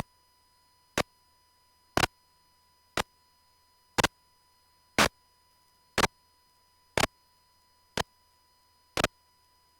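Sharp clicks in the aircraft's intercom audio, evenly spaced about once a second: electrical interference from the strobe light, which the crew accept as noise for the sake of visibility.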